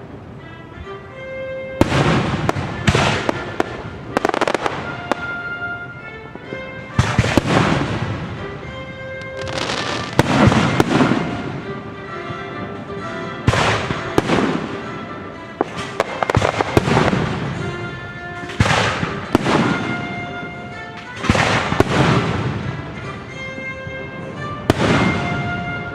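Fireworks shells bursting one after another, about sixteen loud bangs each trailing off in a rumbling echo, some in quick pairs. Orchestral music plays steadily underneath.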